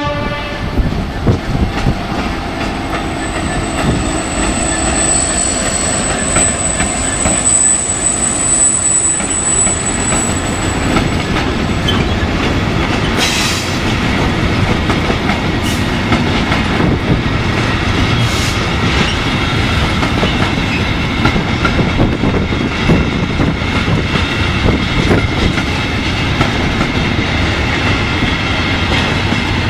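Train running past at close range: a steady rumble of wheels on rail, with a thin high wheel squeal from about three seconds in to about eleven seconds, and a few sharp clacks later on.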